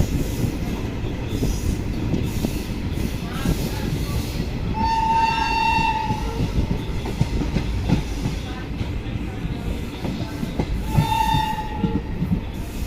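Moving passenger train heard from aboard: a steady rumble with the clickety-clack of wheels over rail joints. A train horn sounds twice, once about five seconds in and again about eleven seconds in, each blast about a second long.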